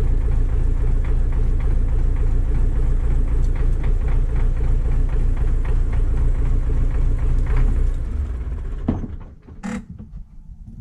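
Diesel tractor engine running steadily, then dying away about nine seconds in, followed by a few light clanks.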